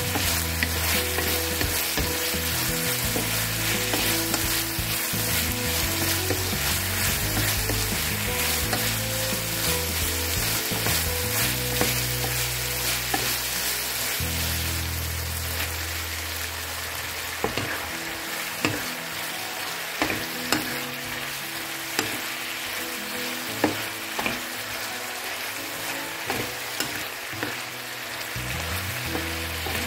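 Chicken, onion and leek sizzling in a frying pan as they are stirred and tossed with a wooden spatula. In the second half the sizzle eases a little and a series of sharp knocks sound as broccoli and cauliflower florets go into the pan and are stirred through.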